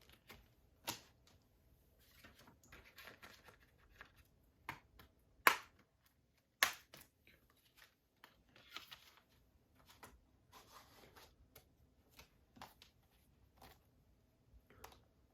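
Hands handling a plastic Blu-ray case and its packaging: scattered light clicks and soft rustling, with two sharper clicks about five and a half and six and a half seconds in.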